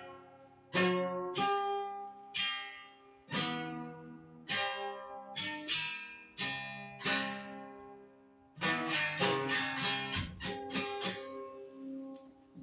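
Stringed instrument strummed, chords left to ring and die away, with quick runs of strokes around the start and from about nine seconds in, single strokes about a second apart in between, fading out near the end.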